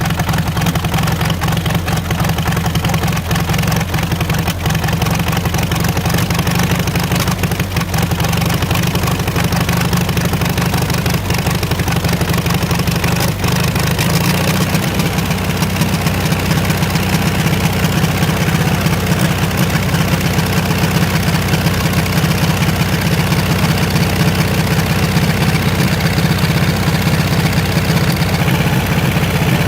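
Diesel generator engine running steadily on diesel fuel, its note shifting slightly about halfway through.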